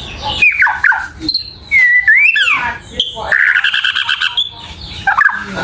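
White-crowned shama (murai batu Borneo) singing in full voice. It gives quick falling whistles, then a wavering, sweeping whistle, then a fast rattling trill a little after halfway, and more falling whistles near the end.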